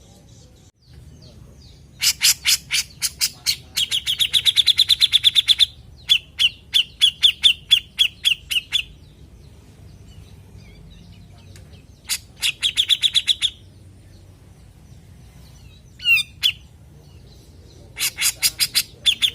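Cucak jenggot (grey-cheeked bulbul) calling in repeated bouts: each is a rapid series of sharp, chattering notes running into a fast, high trill. Pauses of a few seconds fall between the bouts, and a short sliding call comes in the gap before the last one.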